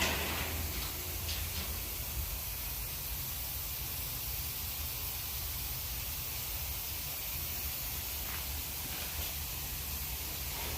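Steady background hiss over a low hum, with a few faint clicks.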